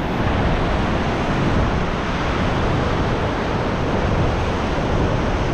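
Steady rushing of a fast glacial river below a swing bridge, mixed with wind buffeting the microphone.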